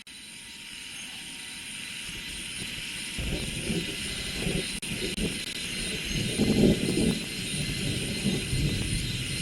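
Steady high-pitched insect chorus over rural ambience, joined about three seconds in by a louder, uneven low rumble.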